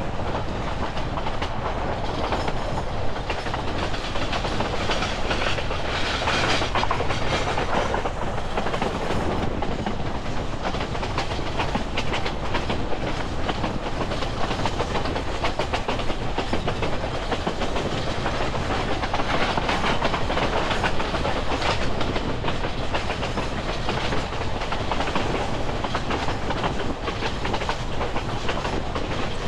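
Narrow-gauge passenger coach of a steam train rolling steadily along the track: a continuous rumble of steel wheels on rail, with the clickety-clack of wheels passing over rail joints.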